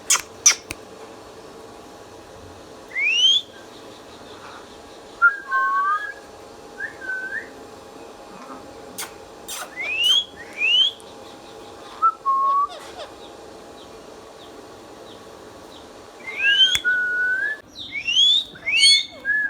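Indian ringneck parakeet whistling: scattered short, quickly rising whistles and a few shorter, lower notes, with quiet gaps between and a few sharp clicks.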